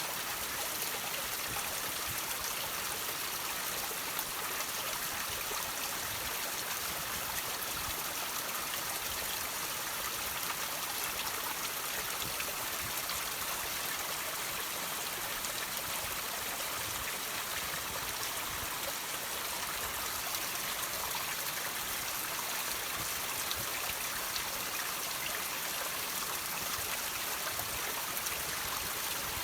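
Water trickling and dripping off rocks: a steady, even splashing made of many small drips.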